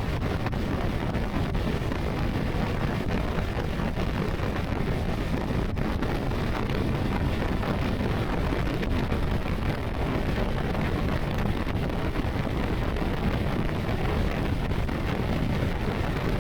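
Steady wind rush on the microphone of a Honda CBR650R motorcycle riding at speed, heavy in the low end and unchanging throughout.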